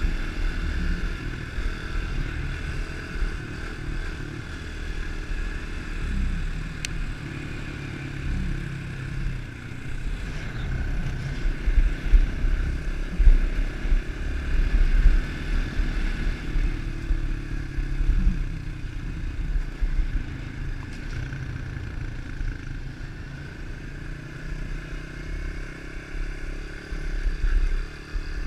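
110 cc pit bike's single-cylinder four-stroke engine running under way, its revs rising and falling several times as it is ridden, over a steady low rumble.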